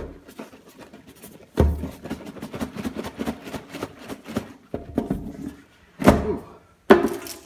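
A cardboard game box being shaken to work a tight inner box out of its outer sleeve: a run of knocks and rattles, with a heavy thunk about a second and a half in and two more thuds near the end.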